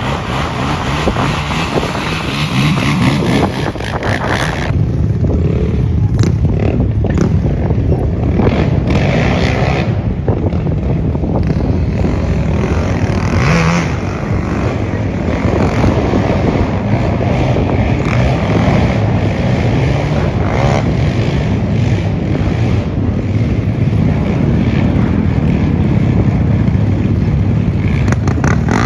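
A motor vehicle driving, its engine running steadily.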